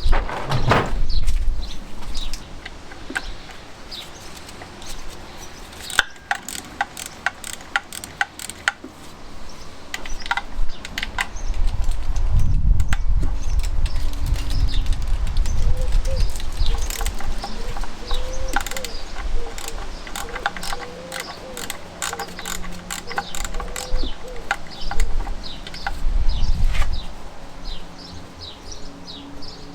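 Hand tools working on the two 10mm nuts holding the oil pickup: a ratchet clicking in short runs, with metallic ticks and taps of tools and parts. A heavier low rumble swells in the middle and again near the end, and small birds chirp in the background towards the end.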